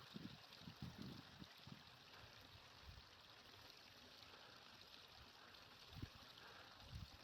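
Near silence: a faint steady hiss like a distant stream, with a few soft low thumps in the first two seconds and again near the end.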